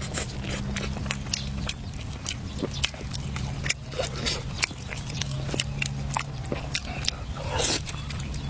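A person chewing and biting food close to the microphone, with many small sharp clicks and smacks, over a steady low hum.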